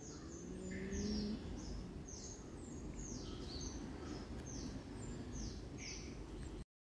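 Faint chirping of cage birds in an aviary: short high chirps, each falling in pitch, repeated about twice a second. The sound cuts off abruptly to silence near the end.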